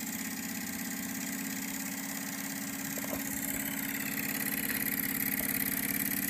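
Jensen Model 65 toy live-steam engine running steadily: a fast, even chuffing beat over a constant hum, with a thin steam hiss, growing slightly louder in the second half.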